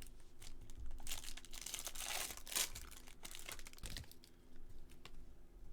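Crinkling and tearing of a trading card pack wrapper being ripped open, densest for about two seconds starting a second in, with a few light clicks and rustles of card handling around it.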